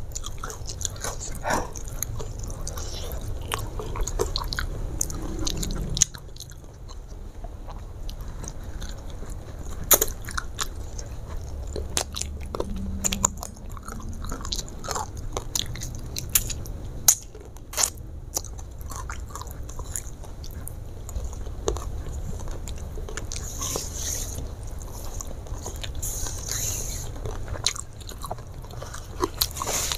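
A person chewing and biting food by hand-fed mouthfuls, with frequent sharp crunches and wet mouth clicks. Two short hisses come about three-quarters of the way through.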